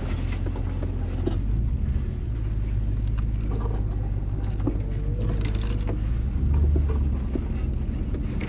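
A four-wheel-drive vehicle's engine running with a low, steady rumble as it crawls along a trail, with a few light knocks. The rumble swells for a moment about two-thirds of the way through.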